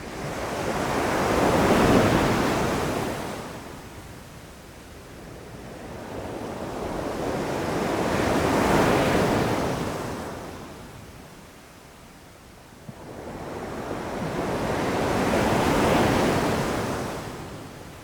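Ocean waves breaking on a beach: three swells of surf, each building to a crash and washing back over several seconds, with wind on the microphone.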